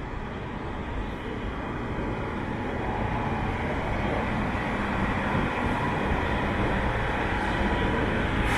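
SJ X2000 (Snabbtåg) high-speed train pulling in on a far platform track: a steady rumble of the running train, slowly getting louder, with a faint high steady whine over it.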